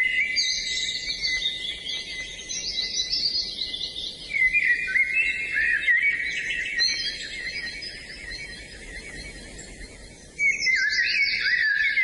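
Several songbirds singing at once, a dense chorus of quick chirps and trills. It grows suddenly louder about four seconds in and again near the end.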